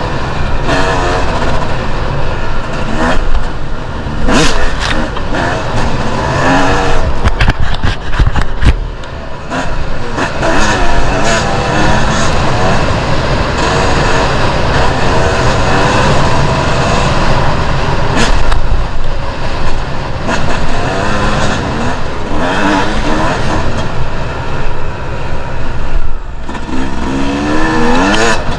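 Two-stroke enduro motorcycle engine revving up and down as the bike is ridden off-road, with sharp knocks now and then.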